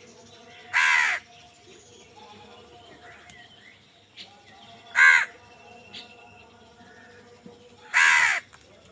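A crow cawing three times, each caw about half a second long and about three seconds apart, with faint chirps of other birds in the background.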